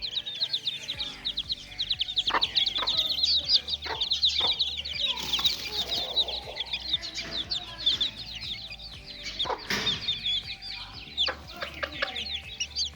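A brood of young chicks peeping continuously, a dense chorus of rapid, high-pitched cheeps, with a few sharp knocks, the loudest about ten seconds in.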